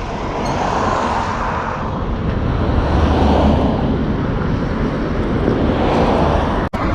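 Road traffic passing on a main road: vehicles going by, their tyre and engine noise swelling and fading, with a momentary cut in the sound near the end.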